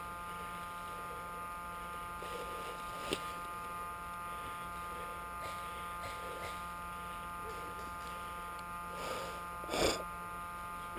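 A steady electrical buzz made of several fixed tones, with a single sharp click about three seconds in and a brief louder burst of noise shortly before the end.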